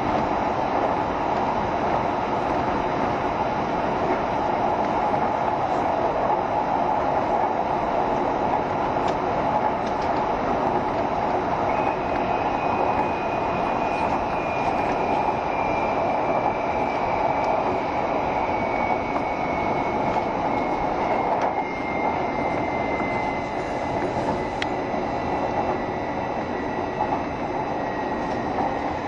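JR Shikoku 7200 series electric train running, heard from on board: a steady rumble of wheels on rail. From about twelve seconds in, a thin motor whine joins and slowly falls in pitch as the train slows.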